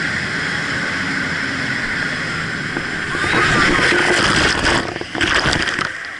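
Jet boat running hard over rushing water with wind noise, getting louder about three seconds in, then a run of sudden noisy hits near the end.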